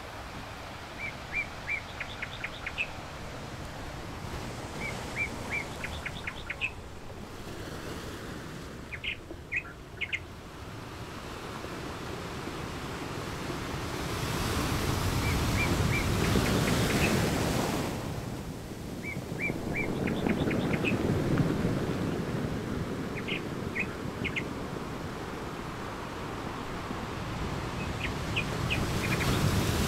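Birds chirping in short, repeated phrases over the wash of ocean surf. The waves swell up about halfway through and again near the end.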